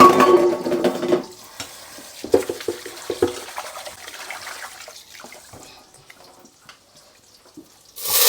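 Water running from a tap into a pot in two short spells, the first and louder at the very start, followed by a few light clinks. Just before the end, a loud sizzle of frying starts.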